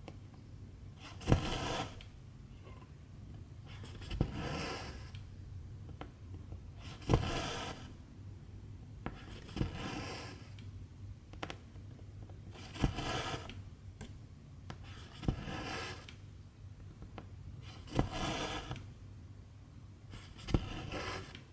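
Cross-stitching by hand: the needle ticks through the fabric and silk thread is drawn through with a short rasping pull, eight stitches at a steady pace of one every two to three seconds.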